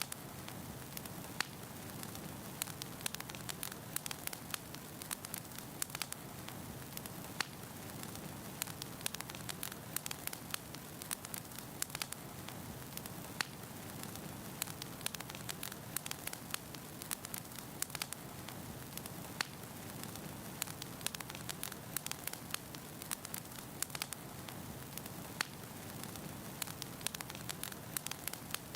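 Wood logs burning in a fireplace: a steady soft hiss with frequent sharp, irregular crackles and pops.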